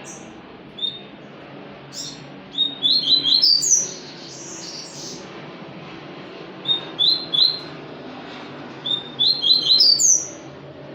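Papa-capim seedeater singing: two quick phrases of sharp, upward-slurred chirps, about two seconds in and again near the end, with a few single chirps between.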